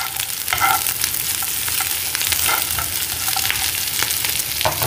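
Onions, green chillies, curry leaves, peanuts and cashews sizzling in hot coconut oil in a frying pan, stirred with a steel spoon that scrapes and clicks against the pan.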